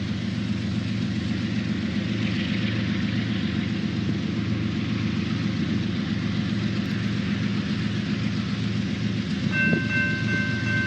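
Diesel locomotive running with a steady, pulsing low engine hum. A multi-note train horn starts sounding near the end.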